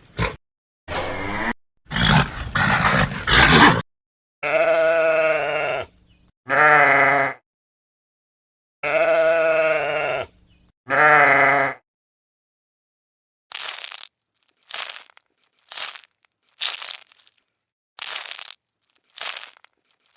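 Bleating from goats or sheep: two pairs of wavering calls, each a long call then a shorter one, after a few rough noisy sounds at the start. In the last third comes a run of short crunching bursts, about one a second.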